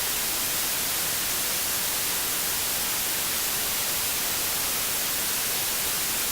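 Steady, unchanging white-noise static: an even hiss weighted toward the treble, with no engine note or other event in it.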